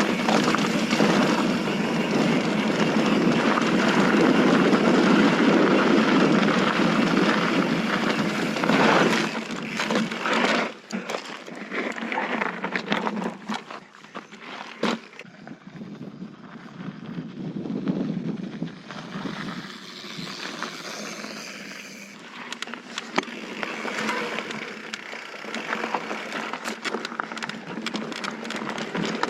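Mountain bike riding down a dirt trail: wind rushing over the microphone and tyres rolling on loose dirt, loud for the first nine seconds or so, then quieter with scattered clicks and rattles from the bike.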